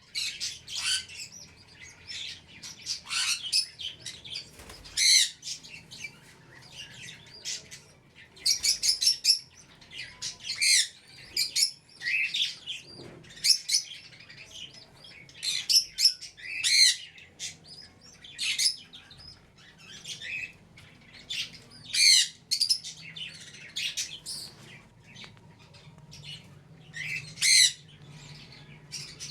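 Small pet parrots chirping and squawking, with loud, sharp calls every second or two over quieter chatter.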